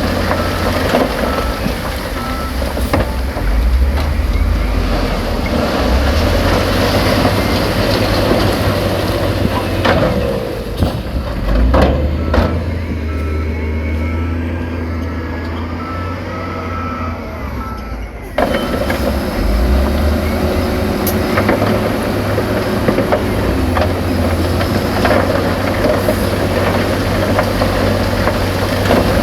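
Diesel engines of heavy earthmoving machines running under load. Midway, a reversing alarm beeps steadily for several seconds.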